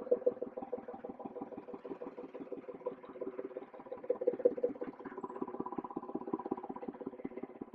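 Class 31 diesel-electric locomotive's engine running, a fast steady pulsing over a constant hum.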